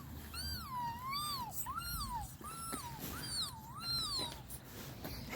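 A young child imitating a mouse with a run of about five high, thin squeaks, each rising and then falling in pitch.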